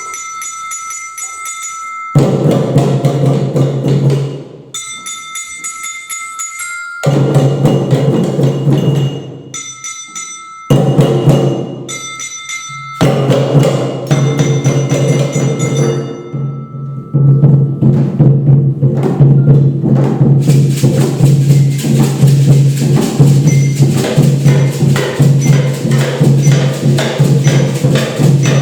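Children's percussion ensemble playing. Short passages of ringing, bell-like pitched tones alternate with bursts of dense drumming. Past the middle the drumming carries on without a break and the whole group plays louder and fuller.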